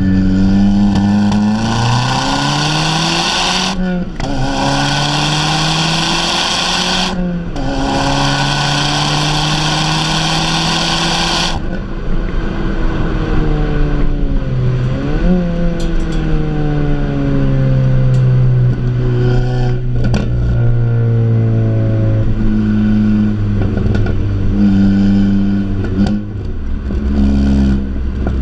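Tuned 350 hp Audi S3 8P's turbocharged 2.0-litre four-cylinder under hard acceleration, revs climbing with quick upshifts about 4 and 7 seconds in. The driver lifts off about 12 seconds in and the revs fall away, with a quick rev blip a few seconds later. It then runs on at moderate revs with the throttle coming on and off.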